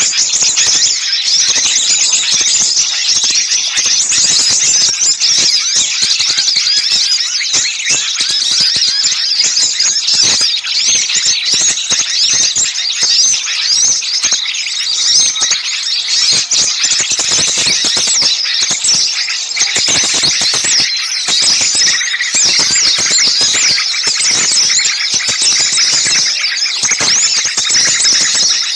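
A bird-lure mix of many small birds in a noisy commotion, with a dense, unbroken chatter of rapid, high-pitched chirps and trills. Agitated calling like this is played to draw birds in.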